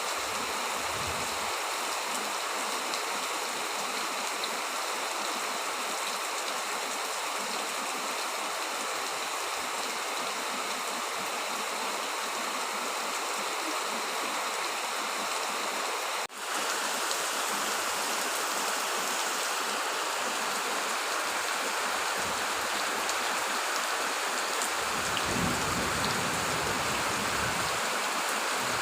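Heavy rain falling, a steady hiss. It breaks off for a moment about halfway through, and a low rumble comes in near the end.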